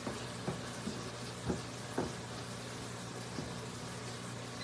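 Breaded chicken livers frying in hot oil: a steady sizzle, with a few light pops or clicks now and then.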